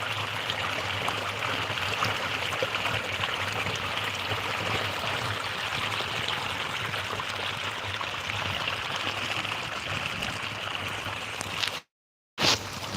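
Running water, a steady rushing flow like a stream. Near the end the sound cuts out completely for about half a second and comes back with a sharp crackle.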